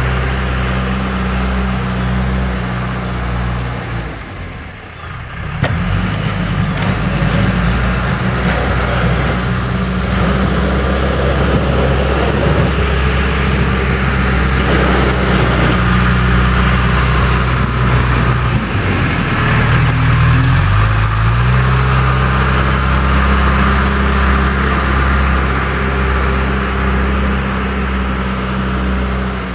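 John Deere 310E backhoe loader's diesel engine running steadily under load. It drops briefly about four seconds in, then carries on with a rough, scratchy noise layered over it, and its pitch dips and climbs again around twenty seconds in.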